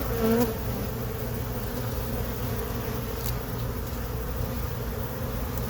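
Colony of honey bees buzzing steadily at an opened hive, a constant hum of many bees, with one bee passing close a fraction of a second in.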